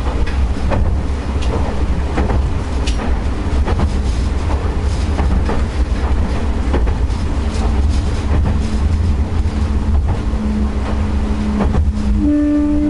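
Miki Railway diesel railcar running along the line, heard from the cab: a steady low engine and running rumble with the wheels clicking over rail joints. A steady tone comes in near the end, and a short, strong tone sounds just before the end.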